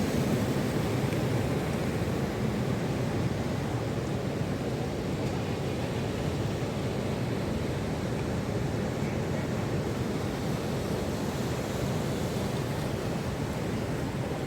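Monsoon sea surf and wind making a steady rushing noise, with no single wave breaks standing out.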